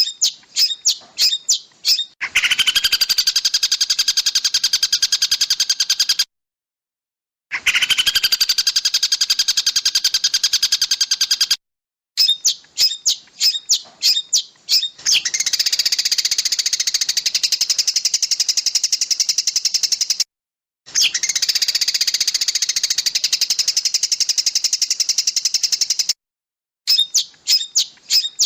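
Songbird calls edited into a masteran training track: runs of sharp, rapid chirps alternate with long, dense, fast trills lasting about four to five seconds each. The trills are separated by abrupt, completely silent gaps.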